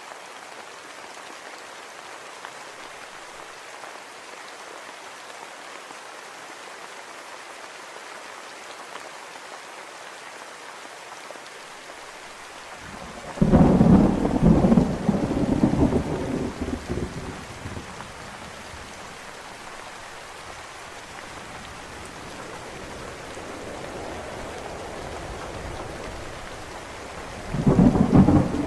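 Steady rain falling, with two long rolls of thunder: one about halfway through that rumbles on for several seconds and fades, and another starting near the end.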